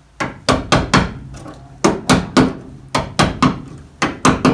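A hammer striking steel on the 1965 Mercury Comet's rear quarter-panel bodywork: about fifteen sharp, ringing metallic blows in quick bursts.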